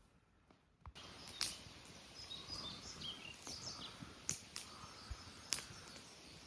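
Near silence for a second, then outdoor ambience: small birds chirping over a steady background hiss, with a few sharp clicks.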